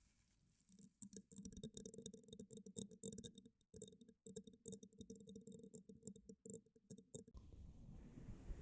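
Fast, irregular tapping clicks close to the microphone, an ASMR tapping trigger, with a faint ringing beneath them; they start about a second in and stop abruptly near the end, giving way to a soft hiss.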